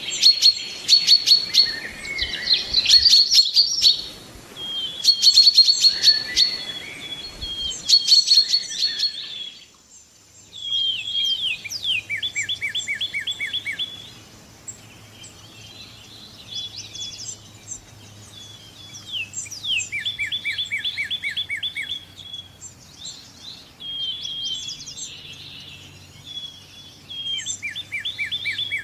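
Songbirds singing: loud, rapid chirping song for the first nine seconds, then a sudden switch to a different song of fast, evenly repeated trills that recur every few seconds, with a faint low hum beneath.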